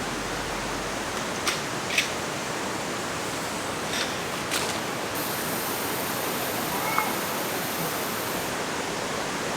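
Mountain stream rushing steadily, with a few sharp clicks about a second and a half in and again about four seconds in.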